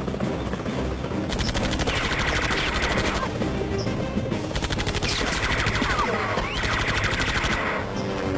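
Rapid automatic gunfire in two long bursts, with a short pause between them, over music.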